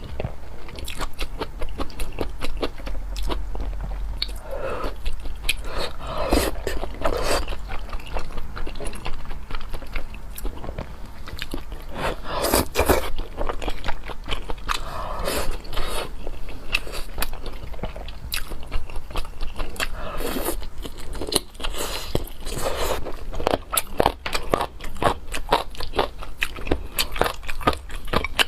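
A person biting and chewing food close to the microphone in ASMR style, with a steady run of quick, sharp mouth clicks and a few fuller, louder bites.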